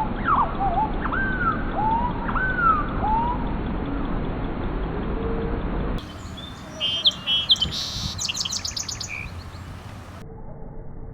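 Bird calls: a series of swooping, whistled calls over a noisy background. They give way abruptly to a burst of rapid high chirps and trills, which fade to faint low tones near the end.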